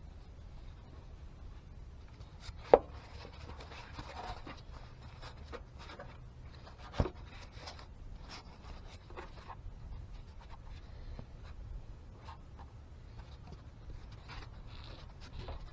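Hands handling parts and tools under the hood: small clicks, taps and rubbing, with two sharp knocks about three and seven seconds in.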